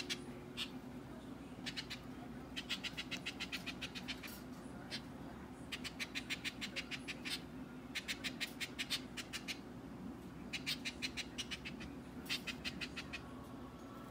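Orioles chattering: bouts of rapid dry notes, about a dozen a second, each bout lasting around a second and repeated every second or two. A steady low hum lies underneath.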